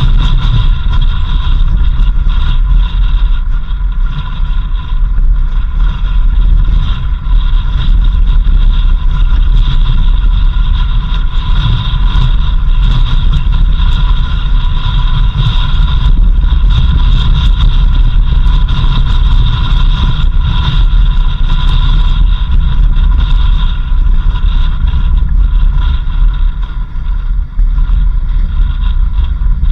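A vehicle driving along a dirt road: a steady, loud low rumble of engine and tyres, with constant higher-pitched tones above it.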